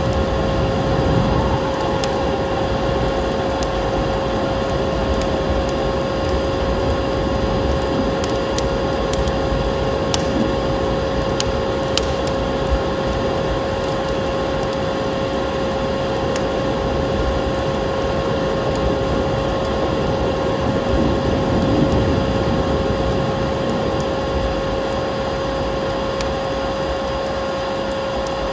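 Wood fire crackling in a fireplace: scattered sharp pops and snaps over a steady rumbling hiss, with a constant steady hum-like tone underneath.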